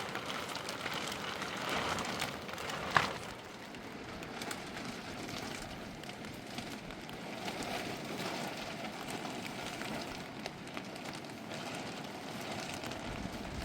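Steady rain falling, with one sharp knock about three seconds in.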